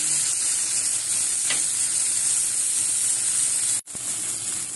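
Food sizzling steadily in hot oil in a pan, a hiss strongest in the high range, which cuts out for an instant near the end.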